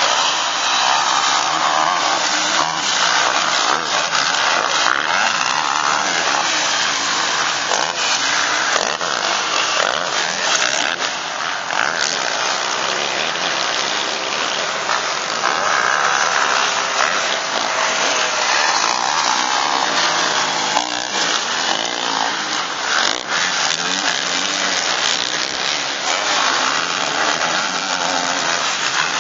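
Motocross bike engines racing, a steady buzzing drone with revs rising and falling.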